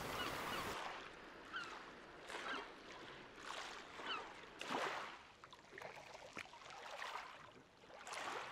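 Faint shoreline ambience: birds giving short calls about once a second, with a few soft splashes of water.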